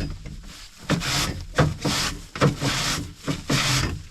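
Footsteps at a walking pace, about two steps a second, each a short scuffing strike with gear rubbing along.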